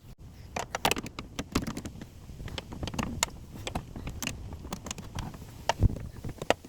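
Irregular clicks and light knocks of screws, a socket tool and plastic trim pieces being handled and worked loose, with one duller knock about six seconds in.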